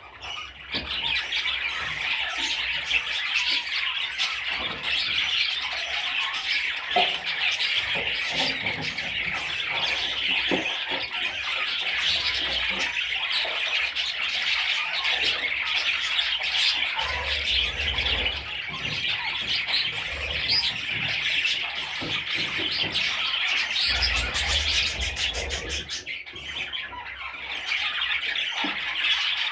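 Budgerigars chattering steadily, many short warbling calls overlapping, with a brief lull about three-quarters of the way through.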